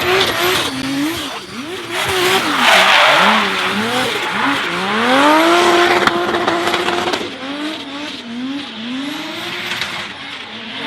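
Toyota Supra MK4's 2JZ straight-six revving up and down through a drift, with tyre squeal. About five seconds in, the engine climbs and holds one steady high pitch for a couple of seconds, then rises and falls again.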